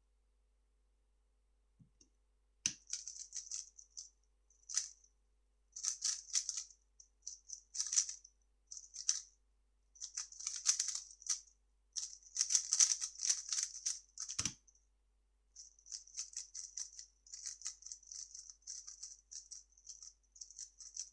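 A 3x3 speedcube being turned fast: rapid plastic clicking in bursts with short pauses between. A thump about fourteen seconds in, then after a short break the clicking starts again, more evenly.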